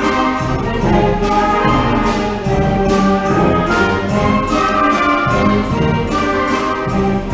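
A middle school concert band playing live, with brass and woodwinds holding chords over regular percussion strokes.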